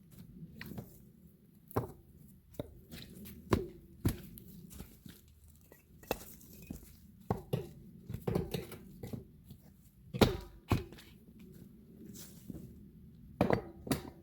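Bricks being set down and knocked into place with a foot so they sit firmly, making irregular knocks and thuds. The loudest come about ten seconds in and near the end.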